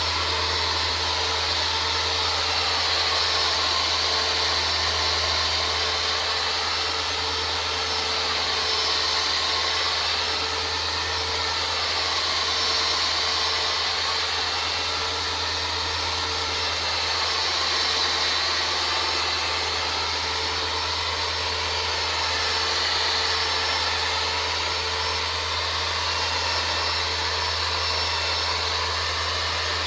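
Handheld power sander running steadily against a car body panel, a continuous whirring hiss that swells slightly and eases every few seconds as it is worked across the surface.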